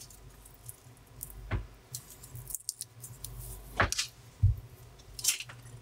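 Soft chewing of a bite of pan-fried bacon, with a few small wet clicks and taps, the bacon chewy rather than crisp. About four seconds in, a strip of bacon is set back down on a wooden board with a light tap.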